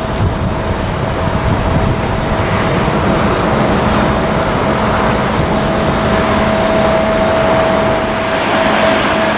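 Boeing 737-900ER's CFM56-7B jet engines at takeoff power: a steady rushing noise with a constant whine, growing slightly louder.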